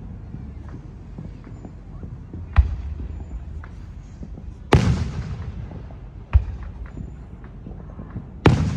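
Fireworks exploding: four sharp booms roughly two seconds apart. The second and fourth are the loudest and fade out in a long rumble. Fainter pops go off between them.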